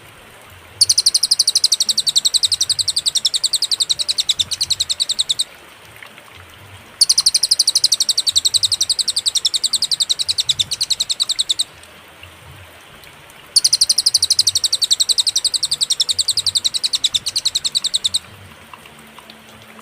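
Recorded cililin song used as a tutor for songbirds: three long bouts of very rapid, evenly repeated high-pitched notes, each lasting about four to five seconds, separated by short pauses.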